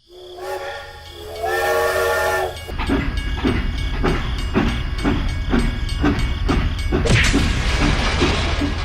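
A multi-tone horn sounds in short blasts, then in one longer blast. After it comes a steady rhythmic chugging of about three beats a second over a low rumble, with a burst of hiss about seven seconds in.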